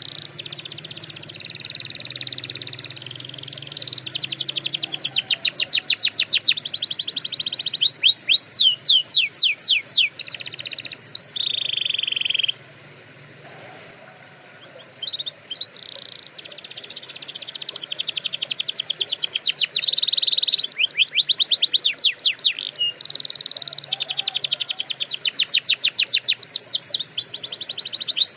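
Domestic canary singing: long phrases of fast trills and rapid sweeping notes, with a pause of about two seconds near the middle.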